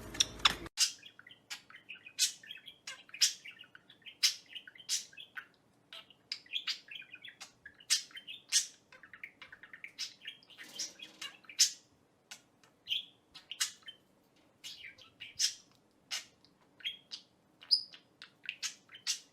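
Pet parrot chirping and chattering: many short, sharp chirps at an uneven pace, with quieter twittering between them.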